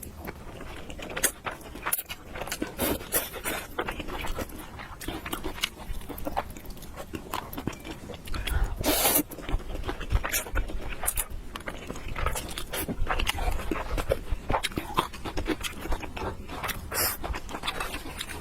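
Close-miked mouth sounds of a person eating spicy noodles: chewing with many short wet smacks and clicks, and one longer, louder sound about nine seconds in.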